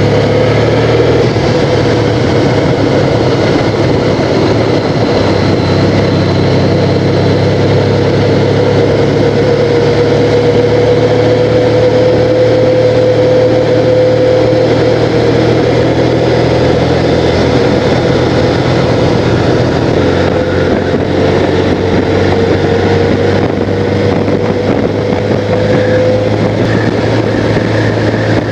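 Honda Crosstourer's V4 engine running steadily at cruising speed, its pitch drifting only slightly up and down, with wind rushing over the camera microphone.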